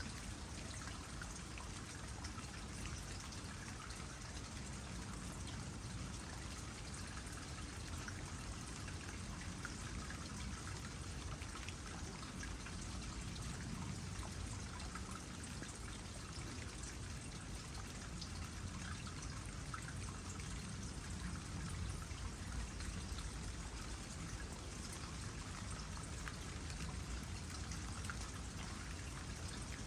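Water trickling into a small pond with raindrops pattering, a steady wash of fine drips and splashes.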